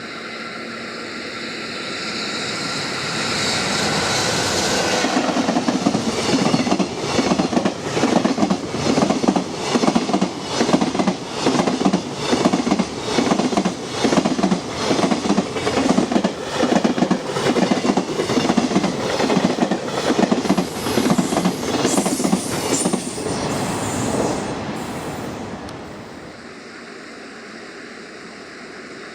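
Freight train hauled by JR Freight electric locomotive EF65-2101 passing close by. The locomotive's sound builds over the first few seconds, then the wagon wheels clatter over the rails in a steady rhythm for about twenty seconds before the train dies away near the end.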